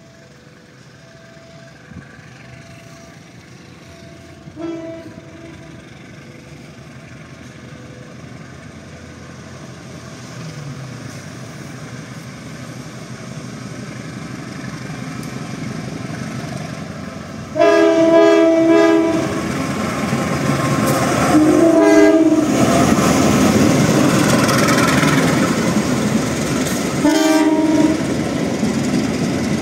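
A train approaching and passing: the locomotive horn sounds faintly about four seconds in, then loudly in three blasts, a longer one followed by two short ones, while the rumble and clatter of wheels on rails grows louder and carries on to the end.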